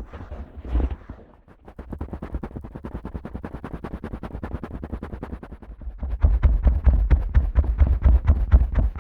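Fingers rubbing, then rapidly tapping on the ears of a Neumann KU100 dummy head microphone: a fast run of many taps a second that turns louder with deep thumps about six seconds in.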